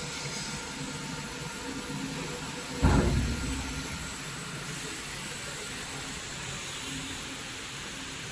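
Steady low hum and hiss with faint steady tones, and one dull thump about three seconds in that dies away over half a second.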